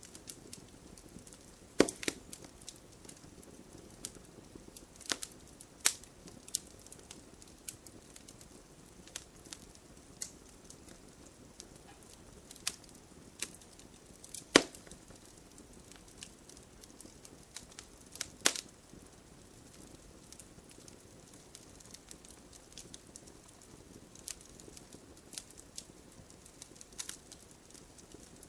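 Wood fire burning: a soft steady hiss with scattered sharp crackles and pops from the burning wood, a few of them loud snaps.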